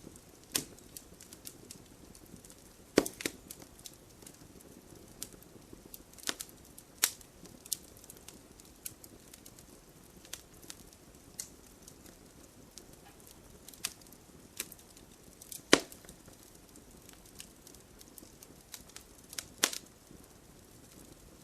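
Wood fire crackling in a fireplace: irregular pops and snaps of burning logs over a low, steady hiss, with a few louder sharp cracks.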